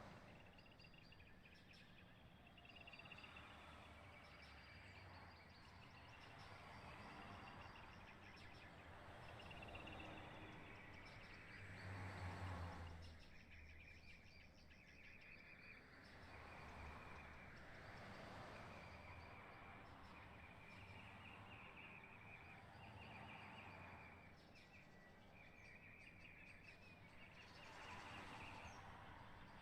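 Faint outdoor ambience: small birds chirping over and over in short high notes, with gusts of wind rumbling on the microphone about twelve seconds in and again near the end.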